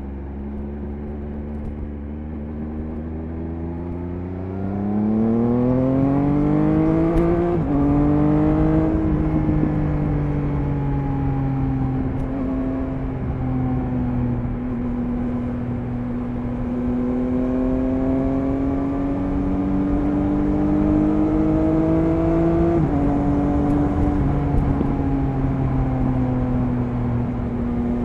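Triumph Speed Triple 1050 RS's inline three-cylinder engine under way: it accelerates hard about five seconds in, with two quick upshifts where the pitch drops sharply, then cruises steadily. The pitch climbs slowly before another upshift near the end, over steady wind noise.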